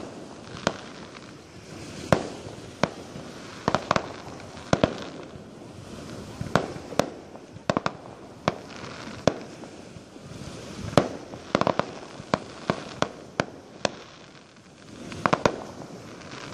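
Fireworks going off: a string of sharp bangs at irregular intervals, some coming in quick crackling clusters of several reports.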